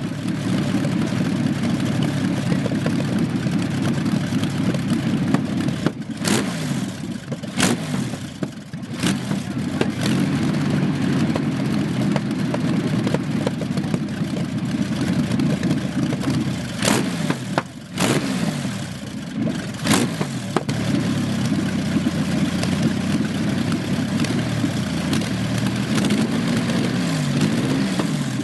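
Napier Bentley's 24-litre Napier Lion W12 aero engine running and being revved up and down, with several sharp cracks at intervals.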